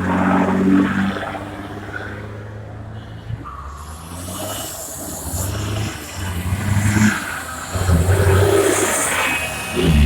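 Vehicle engines running and revving, the low engine sound swelling and easing off several times.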